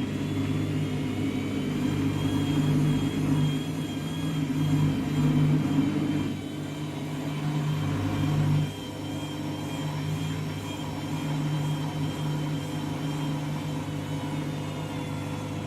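Washing machine drum motor running at low speed with a steady hum and a faint high whine, surging in level as it tumbles to distribute a full load that is unbalanced before the spin. It drops back about six seconds in, and again more sharply just before nine seconds.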